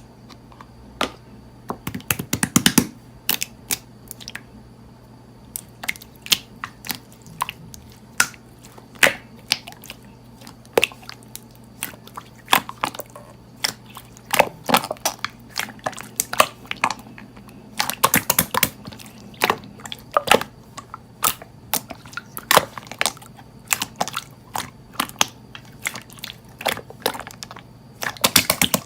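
Slime being pressed and squeezed by hand, giving irregular sharp clicks and pops, in dense clusters a couple of seconds in and again about two-thirds of the way through. A low steady hum runs underneath.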